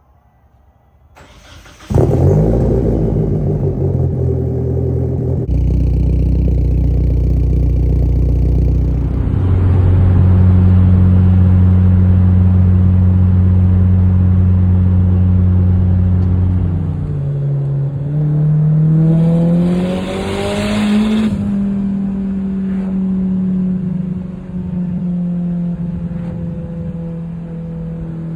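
1997 Mitsubishi Eclipse GSX's turbocharged 4G63 four-cylinder starting about two seconds in and settling into a steady idle. Later the revs rise and fall once, with a brief hiss at the peak, then it goes back to idling.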